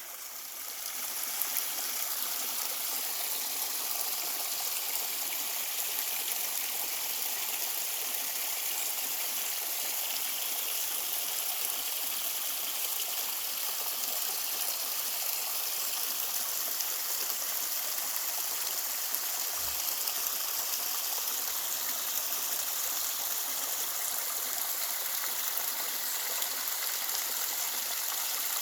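Mountain valley stream flowing steadily, a continuous rush of water that fades in over the first second or so.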